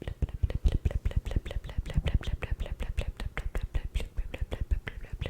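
Close-miked ASMR mouth sounds: a fast, continuous run of short wet clicks and smacks, many a second.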